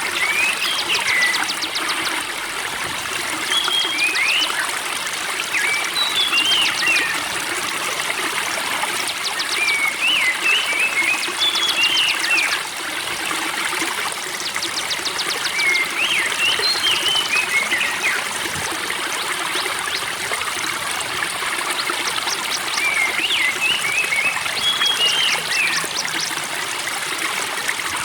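Spring water trickling and gurgling steadily, while a songbird sings short twittering phrases of quick whistles with a rapid high trill, repeated about every six seconds.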